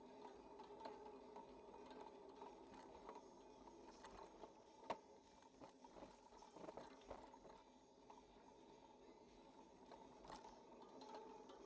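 Faint rattling and clicking of a bicycle carrying a handlebar-mounted camera as it rolls along, with one sharper knock about five seconds in, over a faint steady hum.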